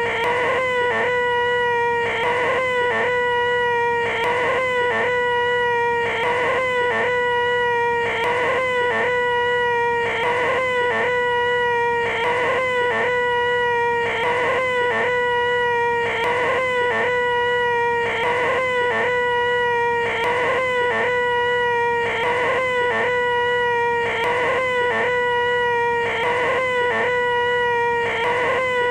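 A man's voice making a loud, nasal, whining 'eeeeh' held on one high pitch: the 'most annoying sound in the world'. It is looped, with a brief break and restart about every two seconds.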